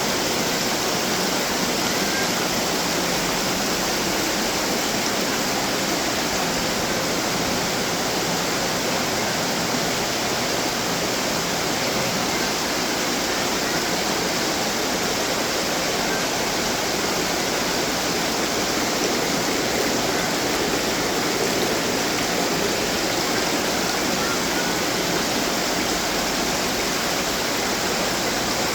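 Water splashing and trickling steadily from running garden fountains.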